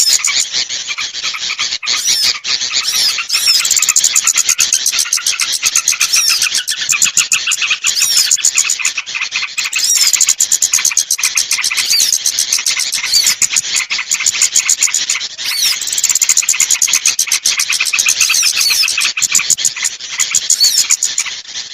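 A dense, continuous chorus of rapid, high-pitched chirps and twitters from small birds, a lure (pikat) call used to draw small birds down from the trees.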